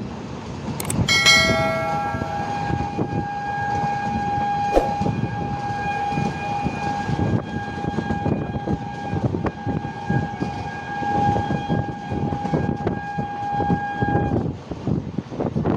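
Train horn sounding one long blast of about thirteen seconds, starting briefly as a two-note chord and then holding one steady note, over the continuous rumble and clatter of a moving train.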